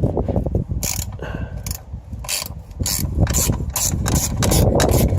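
Ratchet wrench clicking in short, uneven bursts as the exhaust mounting bolts are undone.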